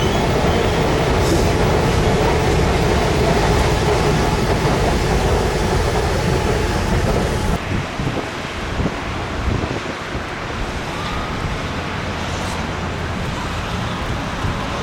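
Railway station ambience: a steady rumble of rail traffic that drops abruptly about halfway through to a quieter, thinner hum.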